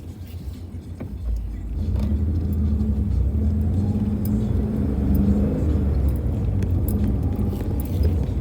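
Car engine and road noise heard from inside a moving car, a low rumble that grows louder about two seconds in and then holds steady.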